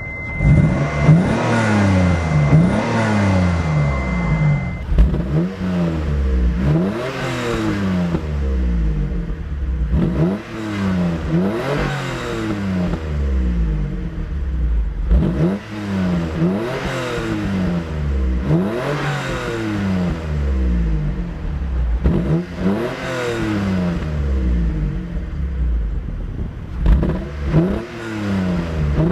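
Exhaust note of a 1994 Mitsubishi 3000GT's 3-litre dual-overhead-cam 24-valve V6, revved in repeated quick throttle blips, each a rise and fall in pitch, often two close together. A steady high beep runs underneath for the first few seconds.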